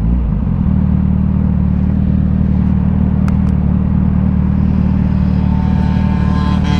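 Kawasaki Z900 inline-four engine through an aftermarket CS Racing exhaust, its pitch changing briefly at the start and then holding a steady engine speed.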